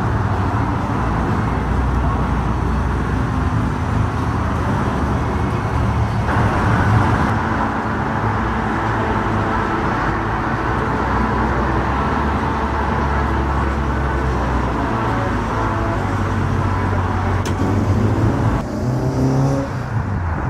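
Car engines running close by, a steady low rumble that rises in pitch briefly near the end as one revs or pulls away.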